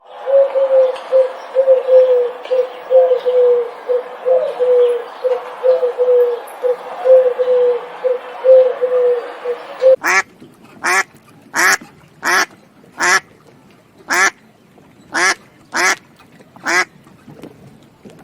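Animal calls in two takes. First a steady run of short, low calls, about two a second. Then, after a cut, a series of about eleven separate harsh calls, each well under a second apart.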